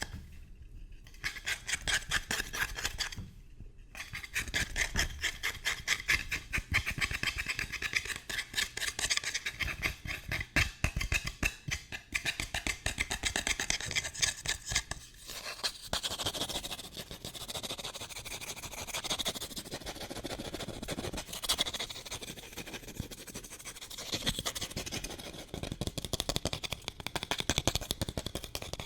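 Fast, aggressive scratching and tapping on an object, a dense run of rapid strokes. About halfway through, the sound changes character, as if a different surface is being scratched.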